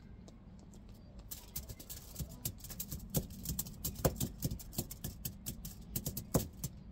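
Close-miked eating sounds: a dense, irregular run of sharp crisp clicks and crackles from chewing and handling sweets, starting about a second in over a low steady hum.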